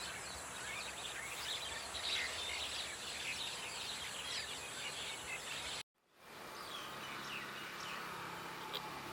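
Several birds chirping and calling in quick, overlapping short notes over a steady high hiss of forest ambience. About six seconds in the sound cuts out completely, then fades back in with sparser chirps.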